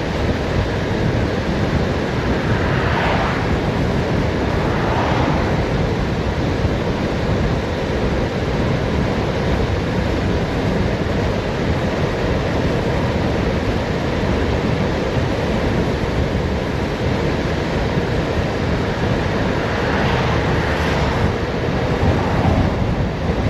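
Wind rushing over the microphone of a bicycle coasting fast downhill, a steady heavy roar, with a few brief swells.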